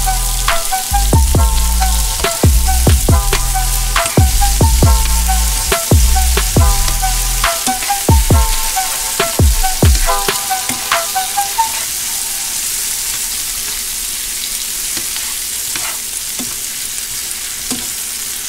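Mushrooms and onions sizzling in butter in a frying pan, stirred and tossed with tongs. Background music with deep drum hits plays over it in the first half and fades out about two-thirds of the way through, leaving the steady sizzle.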